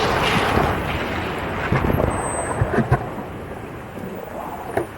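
Wind buffeting the microphone of a rider on an electric unicycle at speed: loud, even noise that dies down gradually over a few seconds. A few short clicks come about three seconds in and again near the end.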